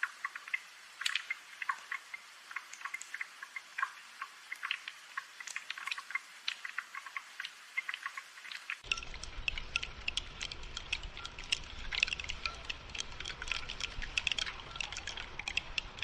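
Rain dripping and pattering: many small, irregular drip ticks. About nine seconds in, a low rumble comes in under them and the drips become denser.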